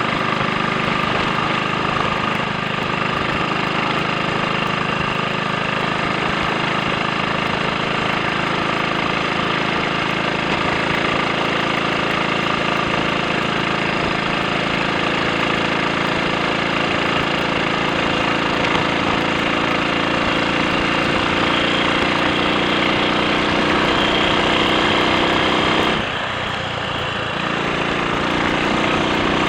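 Triumph Sports Cub's single-cylinder four-stroke engine running steadily while riding. Near the end the engine note eases briefly, changes pitch and then picks up again.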